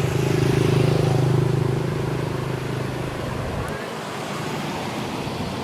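A motor vehicle passing on the road, its engine loudest about a second in and fading away after about three seconds, leaving steady road and outdoor noise.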